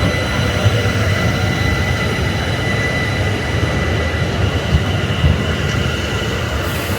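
Electric train running on the rails: a steady rumble with a thin, constant high whine.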